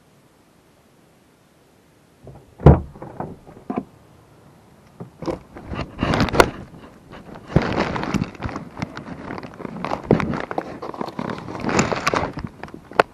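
Handling noise from a camera running inside a bag: faint hiss, then a sharp thump about two and a half seconds in, followed by irregular rustling, scraping and knocking as the bag is moved.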